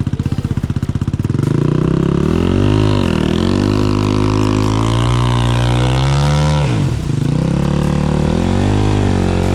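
Single-cylinder enduro motorcycle engine running, with its firing pulses distinct at first, then revved up about a second and a half in. The revs waver up and down under throttle, dip sharply near the end and pick up again.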